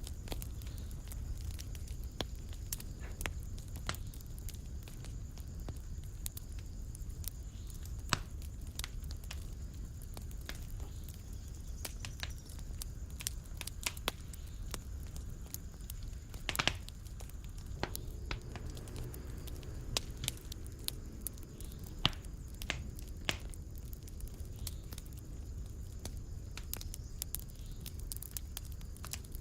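Wood fire crackling in a fireplace: irregular sharp snaps and pops over a low steady rumble, with one louder pop a little past the middle.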